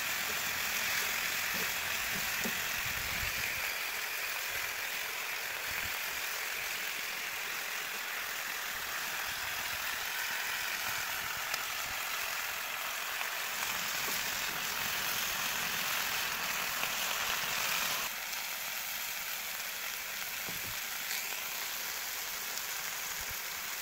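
Chicken wings frying in a wide black pan, a steady sizzling hiss as they sear and start to brown. The hiss drops a little, abruptly, about 18 seconds in.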